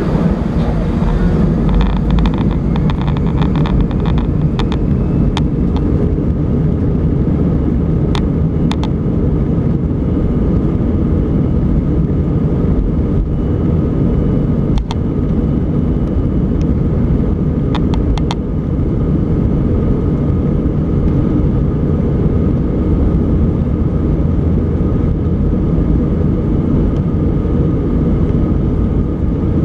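Inside the cabin of an Airbus A320 airliner at takeoff: the jet engines and rushing air make a loud, steady rumble with a faint high whine over it. Short clicks and rattles from the cabin come now and then, most of them in the first several seconds.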